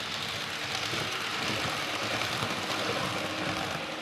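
A 00 gauge model train running along the track, a steady rushing rumble that swells to a peak in the middle and then eases off as it passes.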